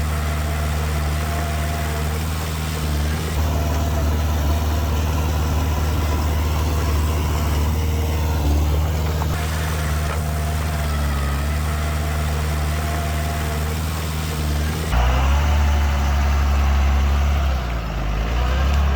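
Heavy diesel engine of earthmoving machinery running steadily at low revs. The engine sound changes abruptly about fifteen seconds in.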